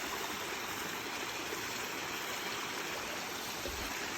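Mountain stream running with a steady, even rush of water.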